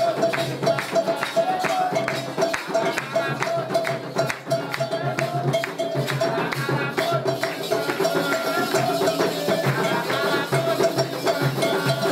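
Candomblé ritual music: fast, steady drumming with shaken rattles, and voices singing over it.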